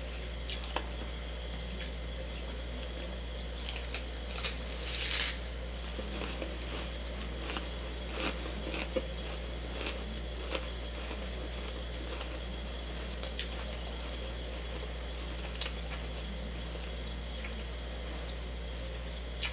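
Freezer frost mixed with humidifier frost being chewed: scattered soft crunches and squishes, with a louder crunch about five seconds in, over a steady low hum.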